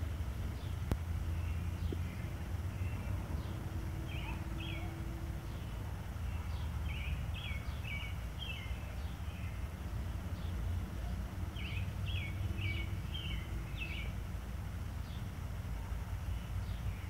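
Outdoor ambience: small birds chirping in short clusters of quick high notes, three times, over a steady low background rumble, with a single sharp click about a second in.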